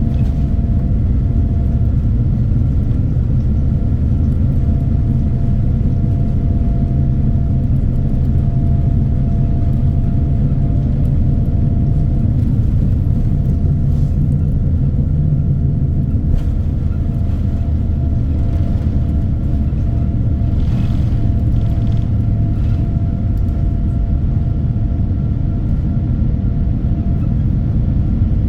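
Steady low rumble of a Boeing 787-9 heard from inside the cabin, with faint steady hum tones over it and a few faint ticks in the second half.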